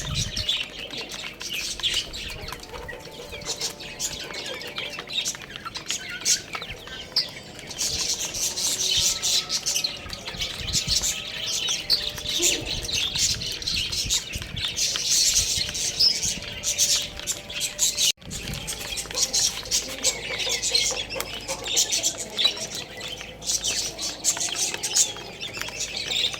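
A group of baby chicks chirping continuously, many high, short peeps overlapping, with a brief break about two-thirds of the way through.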